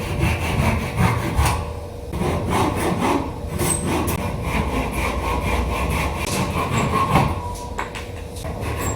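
A handsaw cutting wood with repeated rasping strokes, as when trimming wooden ceiling moulding or framing.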